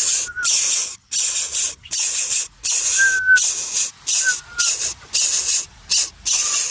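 A gaping nestling bird giving repeated raspy hissing calls, about ten short bursts at one or two a second, with a few faint thin whistled notes between them.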